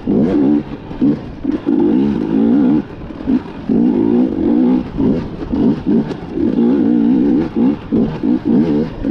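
KTM EXC 250 two-stroke enduro bike engine revving in repeated bursts about once a second, the pitch wavering as the throttle is opened and snapped shut on a slippery, technical trail.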